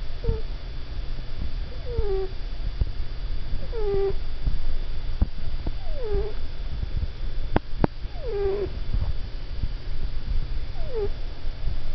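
Sleeping cat making short moaning calls in a dream, six of them, each falling in pitch, about one every two seconds. Two sharp clicks come a little past the middle.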